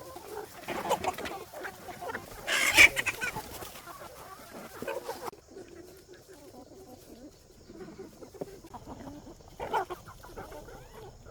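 Chickens clucking in short, irregular calls, the loudest about two and a half seconds in and another near the end.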